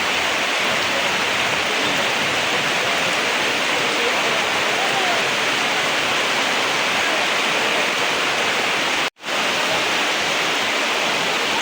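Heavy rain falling as a steady, even hiss, with a momentary break in the sound about nine seconds in.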